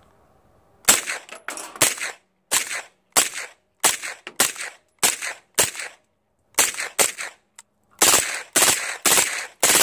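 Suppressed PTR 9CT 9mm MP5-clone firing 115-grain rounds in rapid, slightly uneven succession, roughly two to three shots a second, starting about a second in with a short pause about halfway through.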